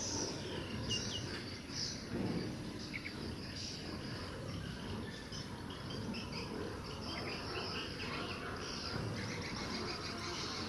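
Outdoor nature ambience: insects trilling in repeated high pulses that run into a steadier buzz after about halfway, with short bird chirps scattered through, over a steady low rumble.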